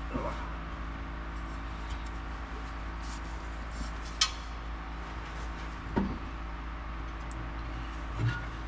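A few short metal clinks and knocks as the exhaust is handled and worked up into its hangers under the car, over a steady background hum.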